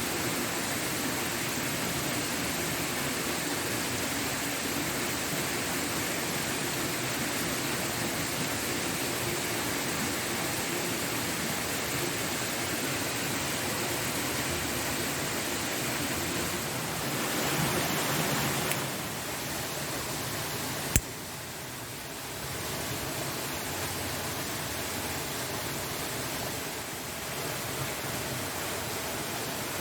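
Steady rushing of a waterfall. A little past halfway it swells briefly, then drops a little quieter, with a single sharp click at the drop.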